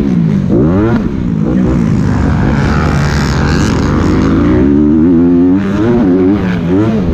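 Motocross dirt bike engine revving hard, its pitch repeatedly climbing and dropping as the throttle is worked. For a couple of seconds in the middle the sound turns rougher and noisier.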